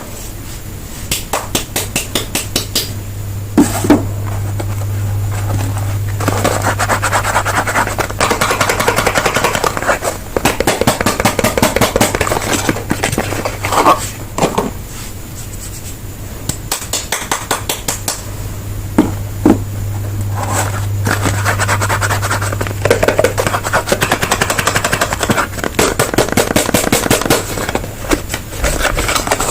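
Soap bars and their packaging handled close to the microphone: fast runs of crisp clicks and crackles alternating with scraping, with a low steady hum in two stretches.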